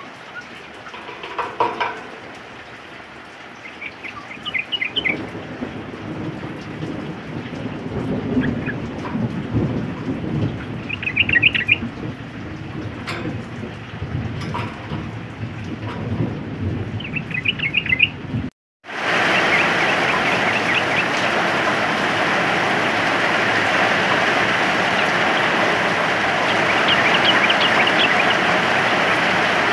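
Yellow-vented bulbul calling in short bursts of quick notes over falling rain and rumbling thunder. A little past halfway the sound cuts out for a moment, then comes back as a steady, heavier rain hiss with the bulbul's notes fainter near the end.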